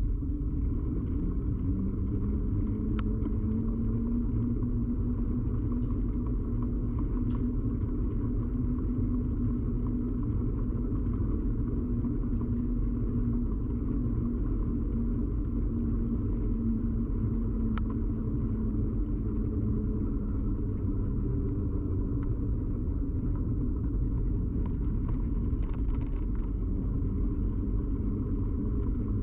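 Bicycle ride noise picked up through a camera fixed to the bike frame: a steady low rumble of tyres and frame vibration with a constant low hum, and two sharp ticks, one a few seconds in and one past the middle.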